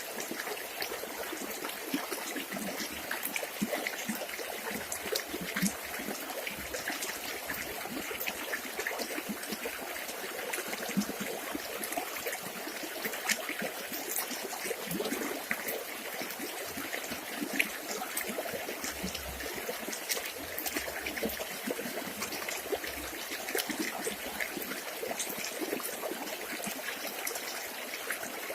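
A shallow river trickling and babbling steadily over stones, with many small splashes and gurgles.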